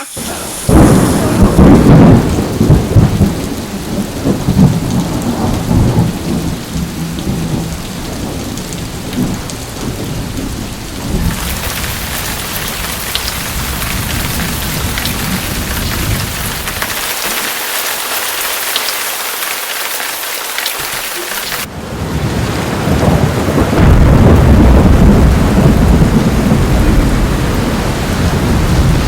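Storm wind gusting hard, rumbling on the microphone, with a steady hiss. The sound changes abruptly about a third of the way in to a thinner, higher hiss without the rumble, and switches back about three quarters through, the low gusting building louder near the end.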